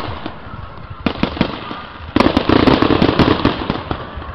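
Fireworks going off: a run of sharp bangs and crackles, with a louder burst of rapid crackling starting about two seconds in.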